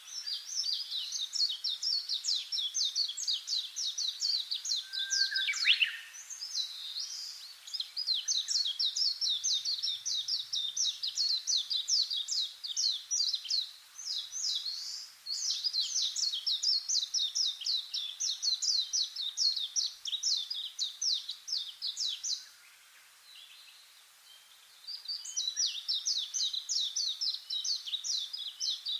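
Small birds chirping in fast runs of high, rapidly repeated notes, in four long bouts with short pauses between; one lower note slides down in pitch about five seconds in.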